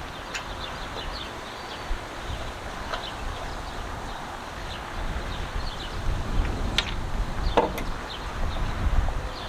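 Small birds chirping over a low wind rumble on the microphone, with a few sharp clicks, the loudest about seven and a half seconds in.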